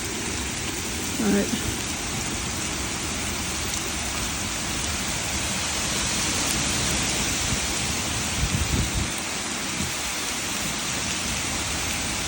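Heavy rain coming down in sheets, a steady hiss, with a few low rumbles about eight and a half seconds in.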